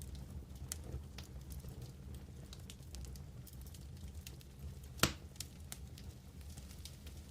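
Campfire crackling with scattered small pops over a steady low rumble, and one much louder, sharp pop about five seconds in.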